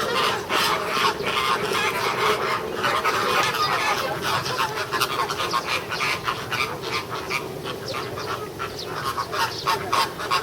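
A group of American flamingos honking and gabbling over one another in a dense, continuous chorus of rapid calls, the raucous back-and-forth of squabbling birds.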